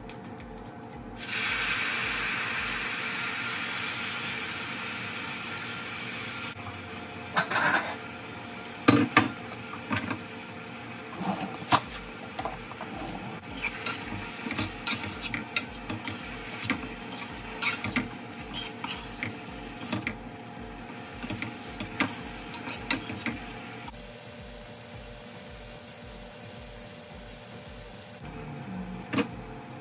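Breaded meatless morsels frying in oil in a frying pan. A loud sizzle starts suddenly about a second in as they go into the hot oil, then slowly fades. It is followed by many short clinks and knocks of the pieces being stirred and turned in the pan over a sizzle that goes on underneath.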